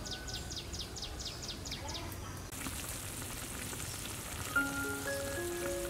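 A rapid run of high chirps, about six a second, then chicken pieces in sauce sizzling in a wok. Light mallet-percussion music starts near the end.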